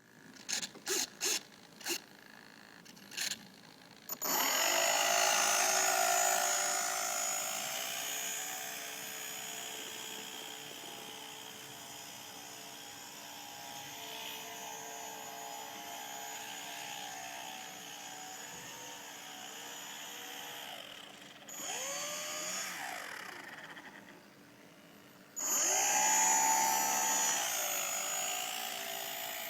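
Motor of a radio-controlled rescue boat. A few sharp clicks come first; about four seconds in the motor spins up and runs with a steady high whine. Near the end it cuts out briefly, then spins up again.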